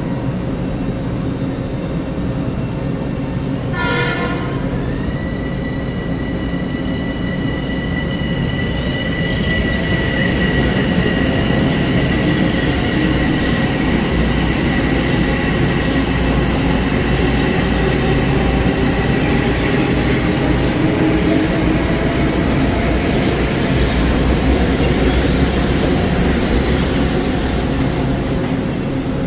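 Metro-North electric multiple-unit train running through the station with a steady rumble of wheels and motors. A short horn blast sounds about four seconds in, followed by a steady high whine, and sharp high squeaks come near the end.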